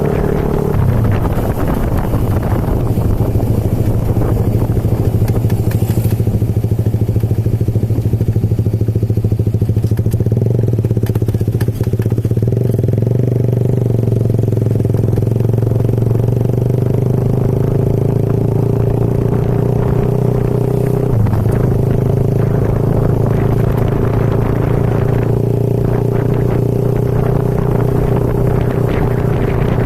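Motorcycle engine running steadily while riding, with a shift in pitch about a second in and a brief dip around twenty-one seconds.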